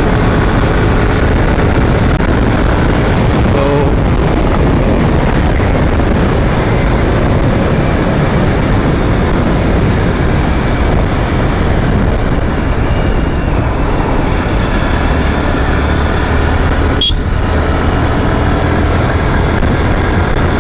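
Steady wind rush and road noise from a moving motorcycle, its engine running underneath, with passing traffic. A single short knock comes near the end.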